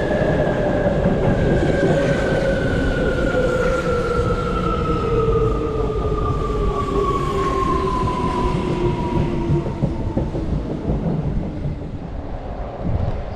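Electric commuter train braking into a station: its motors give a whine that falls steadily in pitch, fading out about ten seconds in, over the rumble of wheels on rail.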